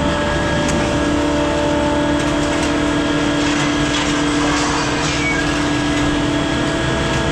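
Hydraulic scrap-handling machinery running steadily: a constant mechanical hum made of several steady tones over a noisy drone, with a few faint clicks.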